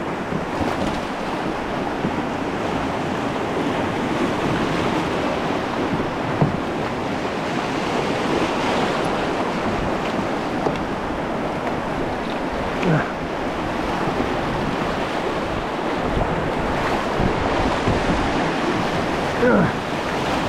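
Whitewater river rapids rushing and splashing steadily around a kayak, with wind noise on the microphone. A single knock comes about six seconds in.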